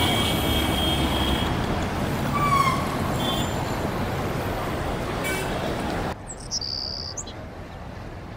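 Road traffic noise: a steady hum of passing vehicles, with a few short high chirps over it. About six seconds in it drops suddenly to a much quieter outdoor hum, with birds chirping briefly.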